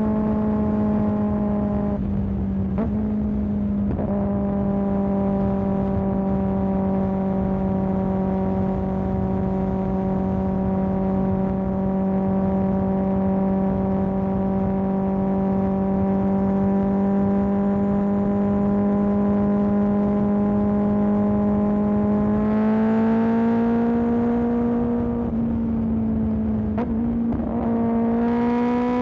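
Kawasaki ZX-10R inline-four engine running through an M4 exhaust, holding a steady note at cruising revs. Near the end the pitch climbs as the bike accelerates, with a brief dip where it shifts up before climbing again.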